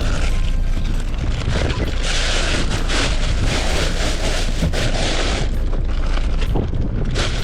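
Fishing boat's engine rumbling steadily, with wind buffeting the microphone in gusts.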